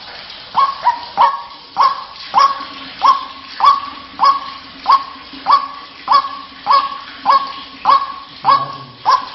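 White-breasted waterhen (ruak-ruak) calling: a steady run of short harsh notes, about one and a half a second, each dropping slightly in pitch and then holding.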